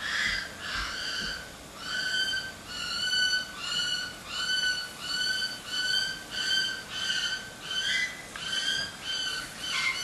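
A parrot calling over and over: a short call of the same pitch, repeated about every two-thirds of a second in a steady rhythm.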